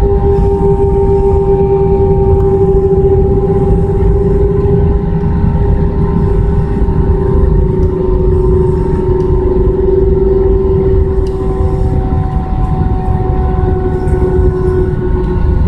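Airbus A320's jet engines running at low power, heard inside the cabin as a deep rumble with a steady whine that sinks slightly in pitch.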